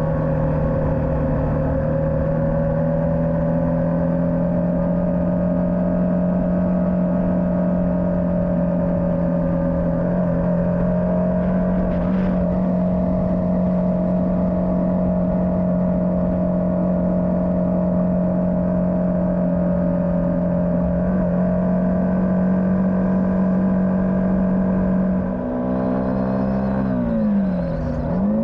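Motorcycle engine running at a steady road speed, its pitch holding level; a few seconds before the end the pitch dips and then climbs back up.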